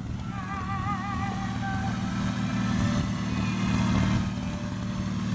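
Garden tractor engines running steadily. A wavering, sung-sounding tone rides over them in the first couple of seconds.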